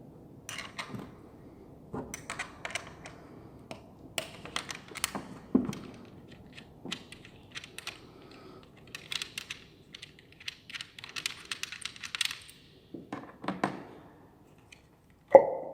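Hand tools clicking and knocking on the engine, with short runs of rapid ratchet-like clicking as the 8 mm bolts are worked. Near the end comes a single loud metallic clank that rings briefly.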